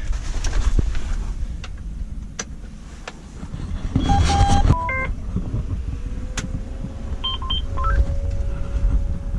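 A tractor's cab electronics beeping as the key is switched on to read the fuel gauge: short stepped electronic tones about four seconds in, more short beeps a few seconds later, and a steady electric tone coming on after them. There are a few sharp clicks over a low rumble.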